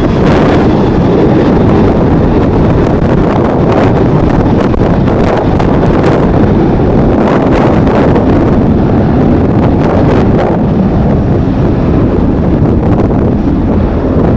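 Strong wind buffeting the microphone: a loud, steady rumble with short crackles.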